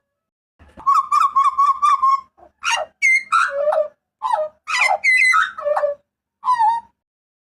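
Hooded butcherbird calling loudly. A rapid run of about eight clear notes a second comes first, then a string of rich whistled phrases that glide up and down, and one short note near the end.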